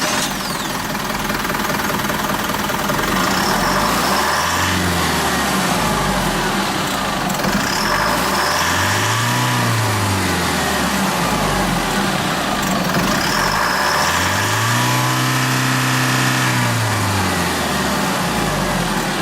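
Isuzu Elf truck's 3-litre, 150 hp intercooled turbo diesel engine idling steadily. It is revved up and back down three times, about four, eight and fourteen seconds in, the third rev held longest.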